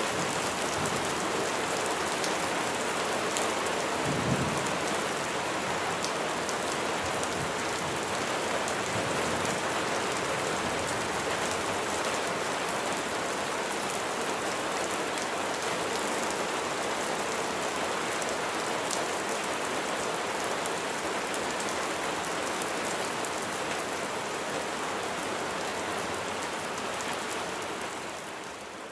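Steady rain falling, with many individual drops ticking on a hard surface. A brief low thump about four seconds in, and the rain drops away in level near the end.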